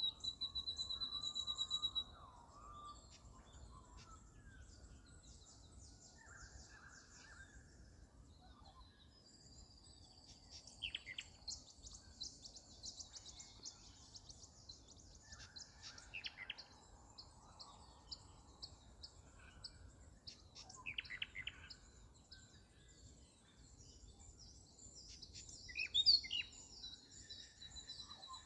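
Small birds chirping and trilling, many short high calls over faint background hiss, with a fast trill at the start and a louder call near the end.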